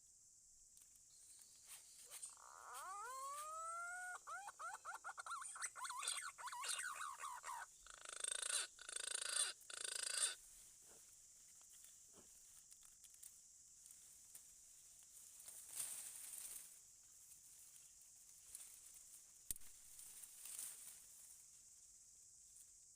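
Green pigeon (punai) call, used as a lure: a few rising whistles, then a quick run of fluttering notes and a harsher, buzzier burst that stops about ten seconds in. Only faint, scattered sounds follow.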